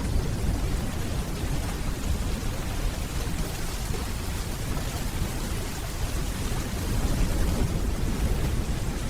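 Steady rainfall with a continuous low rolling rumble of distant thunder beneath it, swelling slightly again about seven seconds in.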